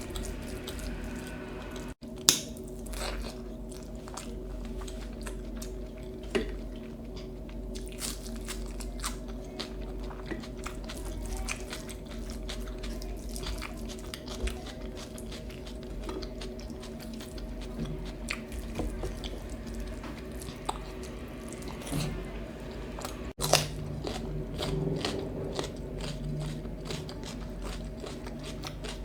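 A person chewing and biting food close to the microphone: a continuous run of crunches and mouth clicks, with a few sharper, louder crunches, over a steady low hum.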